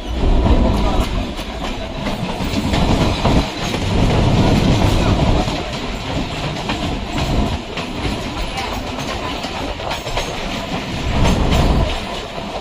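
Electric suburban train on the Chennai MRTS line running along the track, its wheels clattering over the rail joints. The heavy rumble swells and eases several times.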